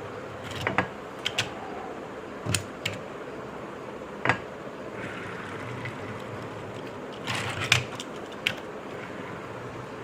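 Die-cast toy trucks being handled, with scattered light clicks and taps of metal and plastic, about a dozen in all, the sharpest just past four seconds and a quick cluster a little after seven seconds.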